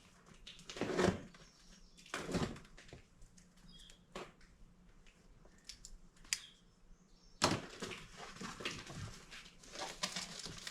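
A pressure washer's shipping box being unpacked. There are a few scattered knocks and scrapes, then about seven seconds in a stretch of steady rustling and crinkling of cardboard and plastic packing begins.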